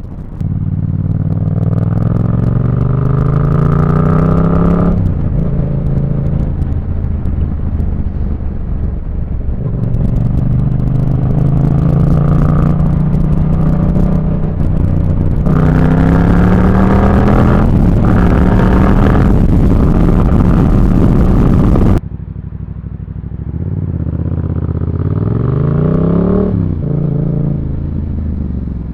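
Motorcycle engine pulling hard through the gears: its pitch climbs and drops sharply at each gear change, several times over. About three-quarters of the way through the sound falls suddenly in level, then the engine rises and falls again.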